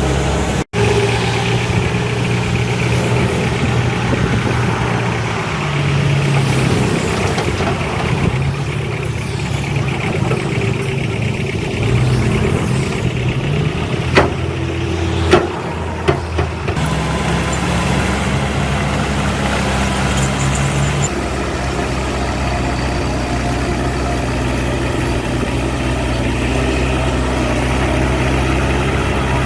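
Diesel engines of heavy earthmoving machinery running, their pitch shifting up and down several times as they work. Three sharp knocks about halfway through.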